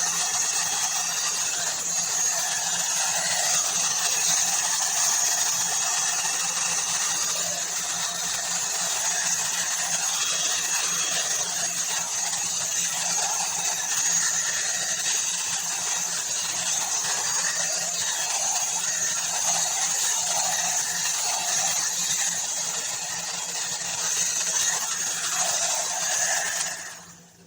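Ubeator hot air brush (hair dryer and styler) running, a steady blowing rush of air over a motor hum. It cuts off near the end.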